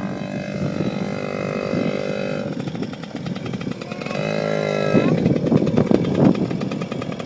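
Kawasaki KDX50's small two-stroke engine running as the bike is ridden. The engine note holds steady at first, rises as it revs up about four seconds in, then turns rougher.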